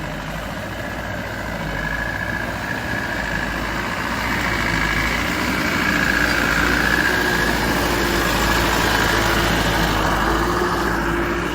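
Motorcycle engine running steadily while riding, getting somewhat louder about halfway through.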